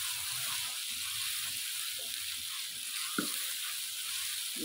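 Onion, tomato and chilli masala sizzling in hot oil in a wok while a spatula stirs it, with a few faint knocks of the spatula. This is the bhuna stage, with the masala being fried down in the oil.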